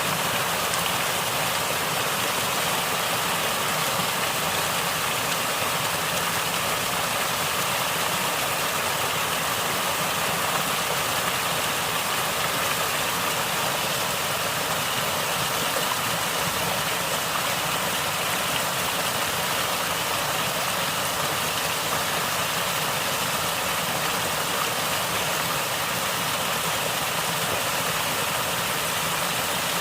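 Water in a natural stream flowing and gurgling in a steady, even rush.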